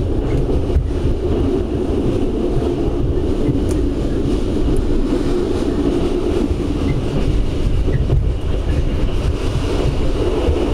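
Passenger train running along the track, heard from aboard the carriage: a loud, steady noise of wheels and carriage in motion.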